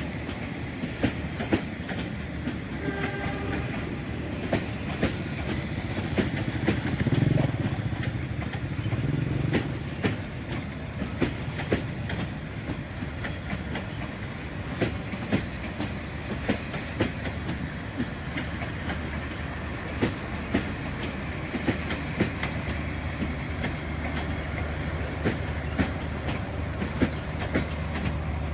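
Passenger train rolling past, its carriage wheels clacking over the rail joints in regular pairs over a steady rumble.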